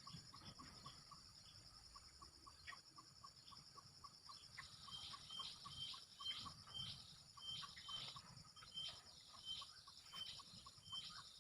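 Faint small-bird chirping: short high notes repeating about twice a second, more insistent from about halfway, over a steady high insect drone and a quick regular peeping.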